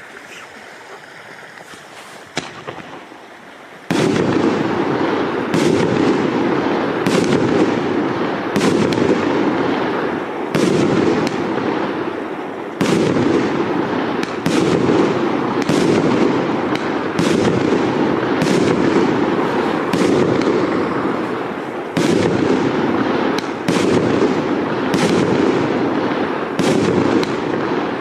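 Consumer firework shooting pearl stars with fish effects. After a quieter start with one sharp crack about two seconds in, it fires a shot roughly every one and a half seconds over a continuous loud fizzing hiss from the swimming fish stars.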